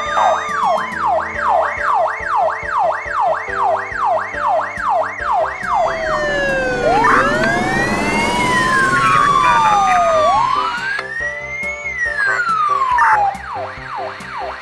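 Police siren sound effects, several layered: a fast yelp sweeping about three times a second over a slower wail, giving way about halfway through to long wails rising and falling, with a rushing noise in the middle. A simple background tune plays underneath.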